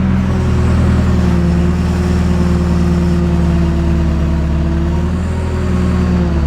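Diesel engine of a JCB backhoe running steadily at working revs, its pitch shifting slightly up and down.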